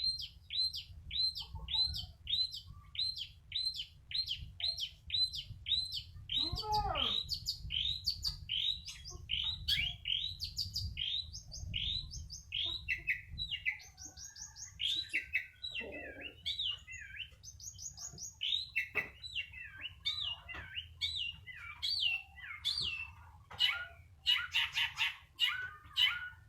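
Long-tailed shrike (cendet) singing: a run of sharp, hooked whistled notes repeated about twice a second, then more varied phrases, turning into fast harsh notes near the end.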